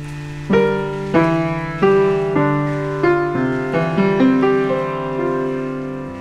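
Background music: a slow piano melody of single struck notes, about one every half second, ringing out over a held low note.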